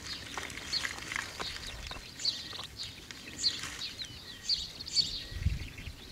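Wild birds chirping in short, high calls repeated every half second or so over faint outdoor background noise, with a brief low thump about five and a half seconds in.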